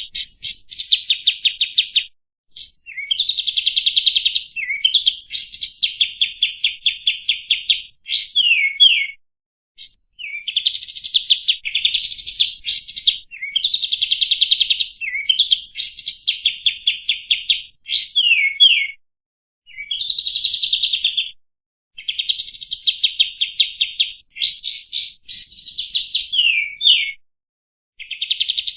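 Kapas tembak songbird singing: phrase after phrase of rapid, high trilled notes, many ending in quick downward-sliding whistles, with short pauses between phrases.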